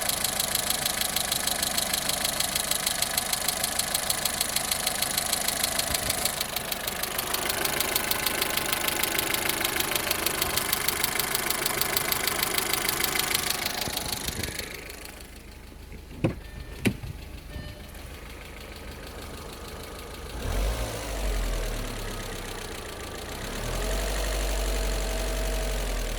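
Car engine running with a rhythmic tick from the cylinder head: knocking hydraulic lifters (hydraulic valve lash adjusters). About fourteen seconds in the ticking stops, followed by two sharp clicks and then a low rumble.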